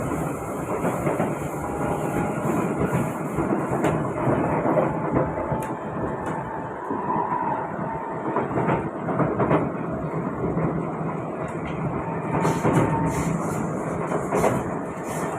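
SMRT Kawasaki-Sifang C151B train running between stations, heard from inside the car: a steady rumble of wheels on rail with scattered clacks.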